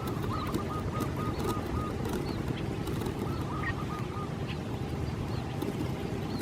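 A waterbird calling in two runs of short, evenly repeated notes, about four a second, over a steady low rumble, with faint high chirps of other birds.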